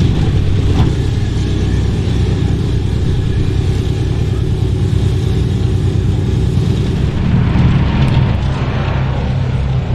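Boeing B-17 Flying Fortress's four Wright Cyclone radial piston engines running with a steady, deep propeller drone. About seven seconds in the engine note becomes clearer and slightly louder.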